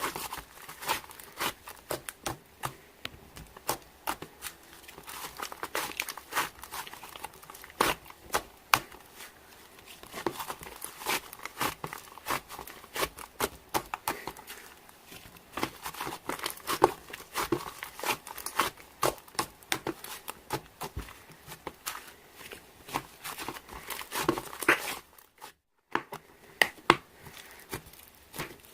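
Slime being squished, poked and stretched by hand, giving dense, irregular sticky clicks, pops and crackles. The sound drops out for under a second near the end.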